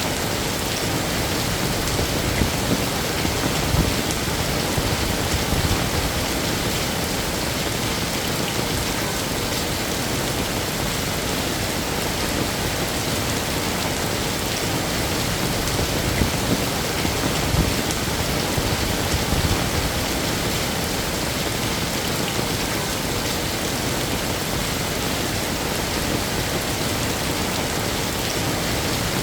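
Heavy rain falling steadily, a dense even patter with occasional slightly louder splashes.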